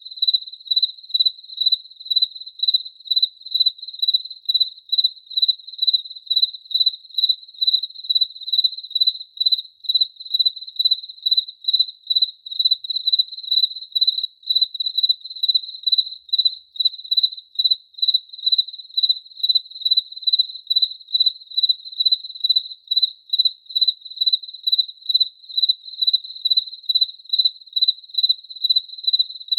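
A cricket chirping steadily in an even, unbroken rhythm of about two high-pitched chirps a second.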